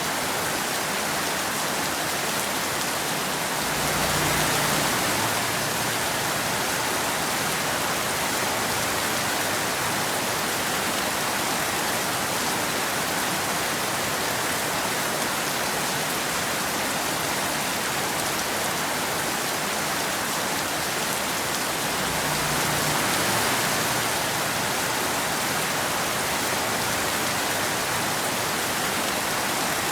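Steady rain falling, an even hiss with no thunder. It briefly swells a little louder with a low rumble twice, a few seconds in and again past the middle.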